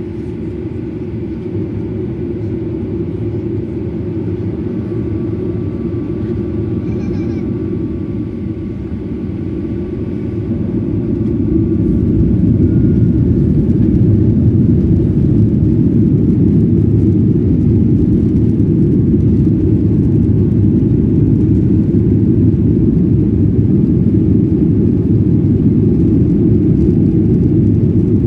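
Boeing 737-800's CFM56 jet engines at takeoff power, a heavy deep rumble that swells about ten to twelve seconds in and then holds steady.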